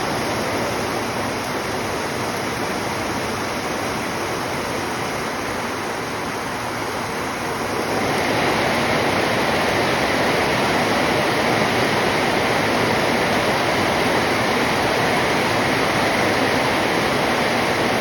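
Steady rush of flowing water, such as a stream or small waterfall. It becomes louder and brighter about eight seconds in.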